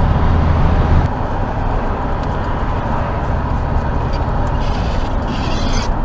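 Vehicle cab noise: a low steady engine hum for about the first second, then a steady rushing road and wind noise as the vehicle drives.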